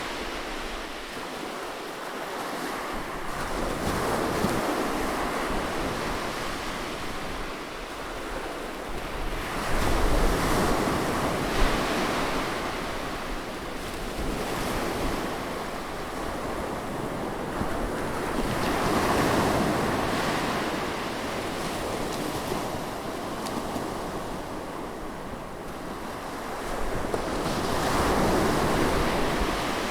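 Ocean surf on a sandy beach: waves breaking and washing up in slow swells every several seconds. Wind buffets the microphone with a low rumble.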